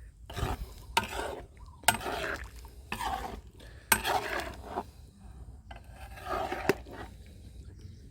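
A utensil stirring a pot of curry, scraping against the pot in short strokes about once a second.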